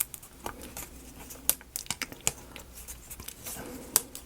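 Small laser-cut wooden model parts being handled and fitted, making irregular sharp clicks and taps, the loudest near the end.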